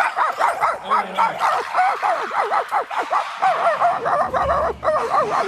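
A puppy yipping and whining excitedly in a fast, unbroken run of short, high, up-and-down yips, about four a second.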